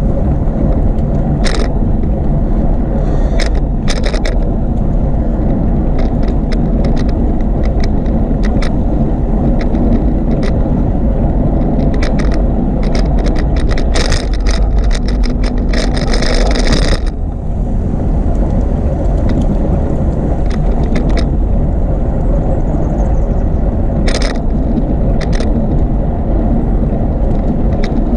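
Steady low rumble of a bicycle ride recorded on the move, wind and rolling noise, with scattered rattling clicks from the bike, thickest about two-thirds of the way in.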